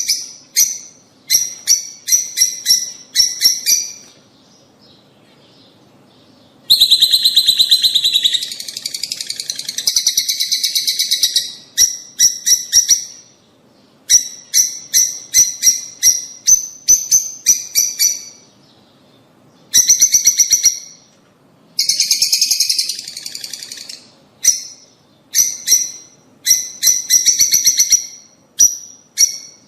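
Lovebirds (rosy-faced and Fischer's) chattering: runs of sharp, high chirps several a second, in bursts broken by short pauses, with two denser stretches of continuous chatter.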